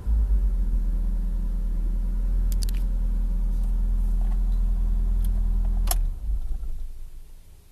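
Ford Scorpio MK1 engine idling steadily, with a few light clicks. About six seconds in there is a click, and the engine dies away and stops, as when the ignition is switched off.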